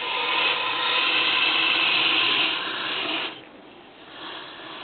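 Water running into the rusty metal gas tank of a 1974 Honda XL100, a steady rushing hiss that stops about three seconds in, leaving a much softer noise.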